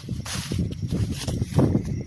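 Strong wind buffeting the microphone: an irregular low rumble that surges unevenly.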